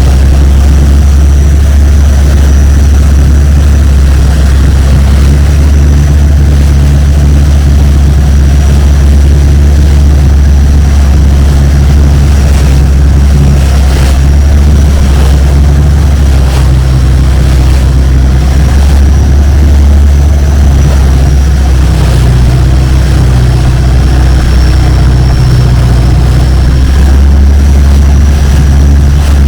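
Longtail boat's engine running steadily, a loud, deep, unbroken drone with a faint high whine above it.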